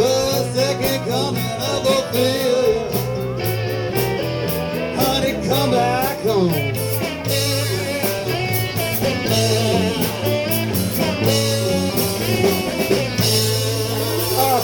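Live blues-rock band playing an instrumental passage: electric guitar lead with bending notes over bass and a drum kit keeping a steady beat.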